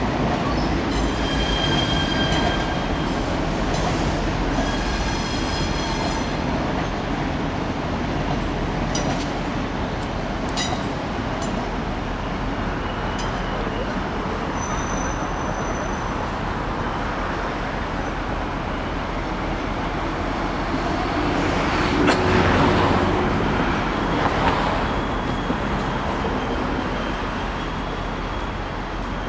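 Train running through a railway yard, a steady rumble with two high-pitched squealing tones near the start and a louder surge about twenty-two seconds in as it passes closer.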